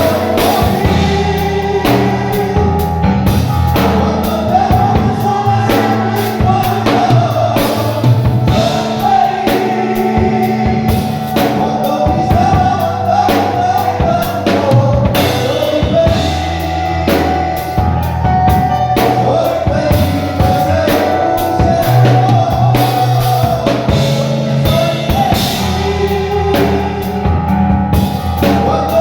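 Live worship song: voices singing a melody over a band with bass and a drum kit keeping a steady beat.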